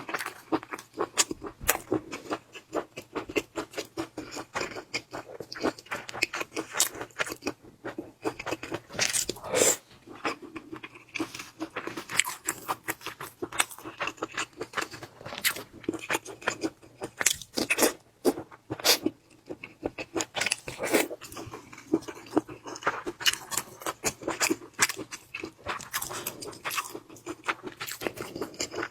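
A person chewing and crunching food close to the microphone, a dense run of irregular wet clicks and crackles.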